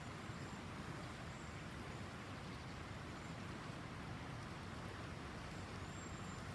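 Steady, faint background noise with a low rumble and no distinct events.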